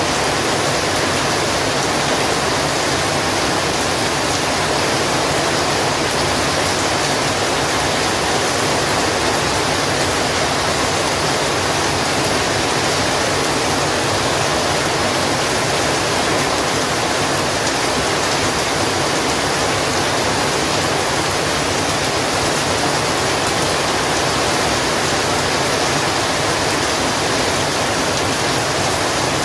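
Heavy rain falling in a steady, dense hiss, with no single drops or thunder standing out.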